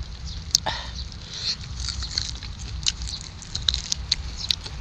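Close-up chewing and lip-smacking over a mouthful of roasted chicken: wet smacks and sharp clicks at an uneven pace. Under it runs a steady low rumble of wind on the microphone.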